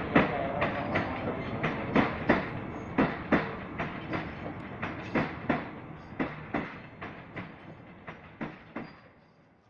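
Railink airport electric train passing, its wheels clacking over the track joints in quick pairs as each bogie crosses. The clacks and rumble fade as the last car goes by, and stop near the end.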